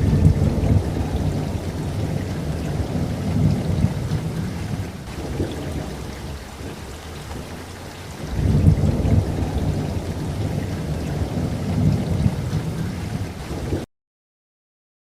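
Steady rain with two long rolls of thunder, the first from the start for about five seconds and the second starting about eight seconds in. The sound cuts out to dead silence for about a second near the end.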